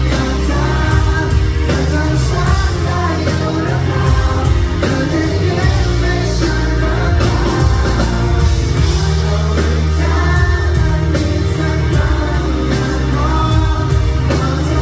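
Pop-rock band playing live with a singer: loud, steady music with heavy bass and sung vocals.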